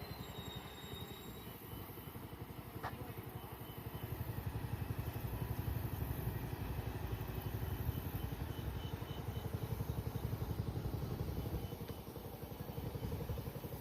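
Low engine rumble with a rapid pulse. It grows louder about four seconds in and eases off near the end. There is one short click about three seconds in.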